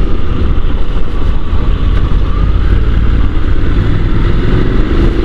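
Honda NC750 parallel-twin motorcycle riding along at speed: steady engine drone under heavy wind rush on the microphone, with the engine note rising slowly in the second half as the bike accelerates.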